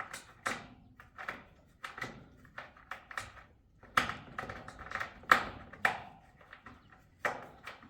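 A run of irregular sharp taps and knocks, some a little louder than the rest, from objects being handled or worked.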